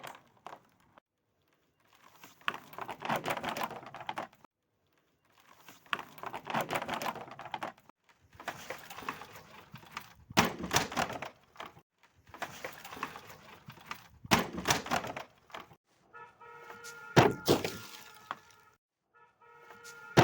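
Glass bottles and crunchy objects being crushed one after another: six bouts of crackling, crunching breakage every few seconds, several with a sharp smash. In the last few seconds steady ringing tones sound beneath the crunches.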